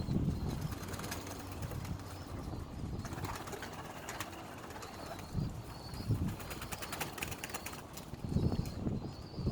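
Pigeons cooing in short low bursts, with a patch of fine fluttering clicks in the middle that may be wings.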